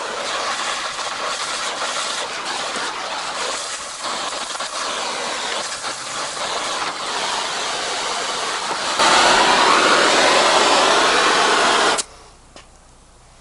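Oxy-fuel torch flame hissing steadily while heating steel rebar. It grows louder about nine seconds in, then cuts off abruptly about three seconds later.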